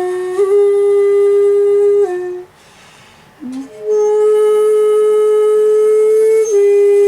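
Shakuhachi bamboo flute played solo in long held notes. The first note steps up slightly and then breaks off; after a breath pause of about a second there is a brief low note, then a long held note that drops slightly near the end.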